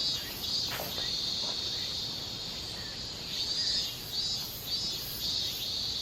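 Insects chirping in a steady chorus, with a high, pulsing trill that swells and fades every half second or so. There are two faint clicks in the first second and a half.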